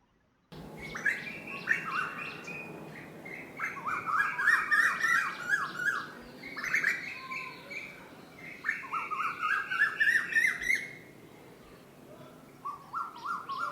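Koel (cuckoo) calling in a run of phrases, each one a rapid series of repeated notes lasting a second or two, with faint higher chirps behind.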